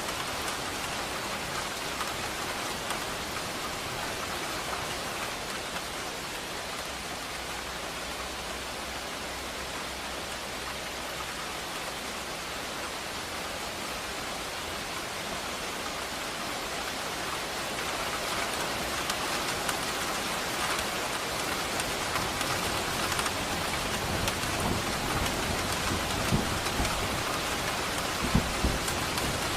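Steady rain falling, an even hiss, with a low rumble of thunder building in toward the end.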